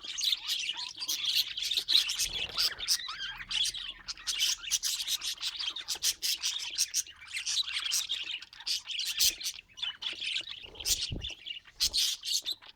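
Budgerigars chirping and warbling in rapid, continuous chatter, with a few soft low thumps about two seconds in and near the end.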